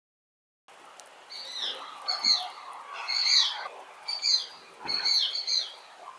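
A bird of prey calling: a series of short, high, down-slurred calls, about one a second, starting just under a second in.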